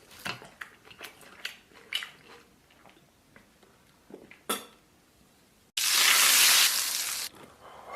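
Utensils clicking and scraping against a bowl in a string of sharp taps, then, about three-quarters of the way in, a sudden loud hiss that lasts about a second and a half before dropping away.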